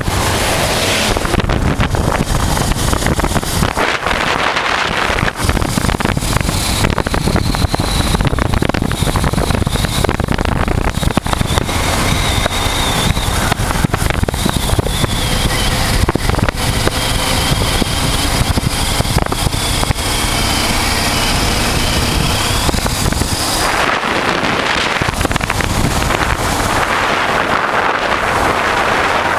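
A 1988 Honda Transalp's V-twin engine running while the bike is under way, mixed with wind rushing and buffeting over the microphone. The wind noise grows stronger near the end.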